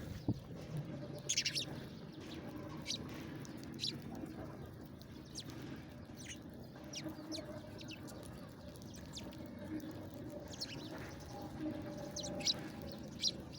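Small birds chirping, short high calls scattered irregularly through, over a low steady hum.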